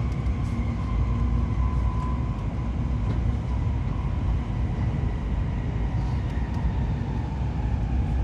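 Cabin noise of a Tokaido Shinkansen 700 series train under way: a steady low rumble with a faint, steady whine above it.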